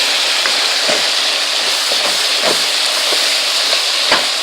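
Ground beef sizzling in a hot pan, a steady loud hiss, with scattered scrapes and taps of a spoon working the meat apart; a sharper tap comes about four seconds in.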